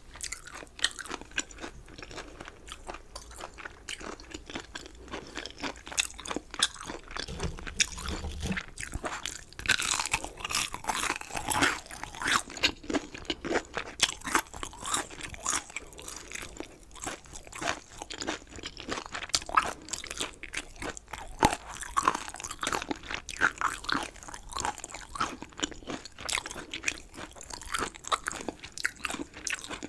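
Close-miked chewing of chicken wings and chicken gizzards: a steady run of irregular crisp crunches and wet chewing, with a denser, louder spell of crunching about ten seconds in.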